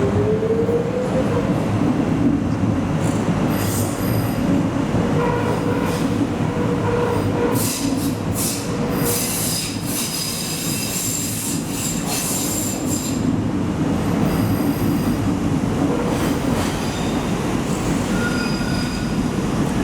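Docklands Light Railway train running, with a short rising motor whine as it pulls away at the start. Steady rumble follows, and high-pitched wheel squeal sets in from about a third of the way through to about two-thirds.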